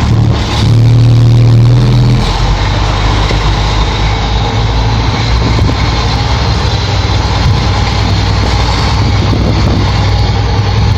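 Dump truck's diesel engine running steadily. About a second in it grows louder with a steady pitch for a second and a half, then settles back to an even run.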